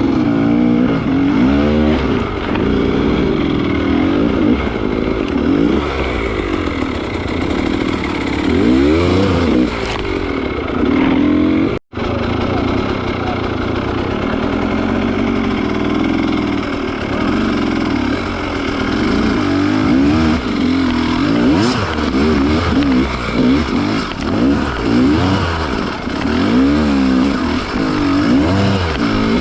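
Kovi 300 two-stroke enduro motorcycle engine under load off-road, its revs rising and falling over and over as the throttle is worked. The sound breaks off for an instant about twelve seconds in.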